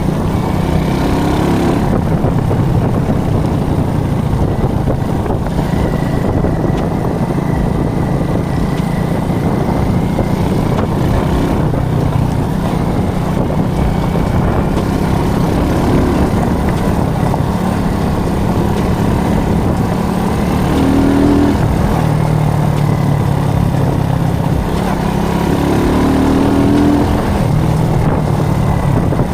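Alpha moped's small single-cylinder four-stroke engine running steadily under way. The engine note climbs briefly a couple of times, once about two-thirds of the way in and again near the end.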